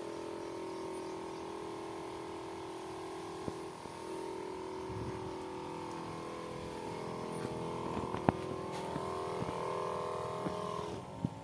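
A steady machine hum made of several held tones, its pitch wavering slightly in the second half, with a few faint taps, one sharper tap about eight seconds in.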